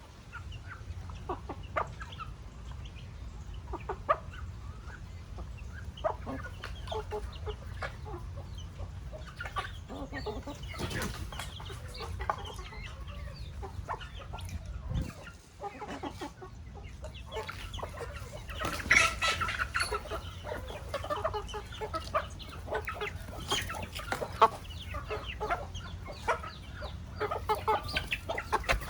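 Chickens clucking, with many short calls overlapping throughout and a louder flurry of calls about two-thirds of the way through, over a steady low rumble.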